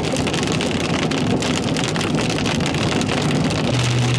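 Heavy rain pelting a moving car's roof and windshield, over the car's road noise. A steady low hum sets in near the end.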